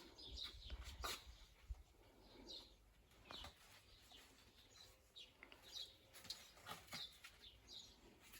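Faint outdoor ambience with scattered, distant bird chirps and a few soft clicks.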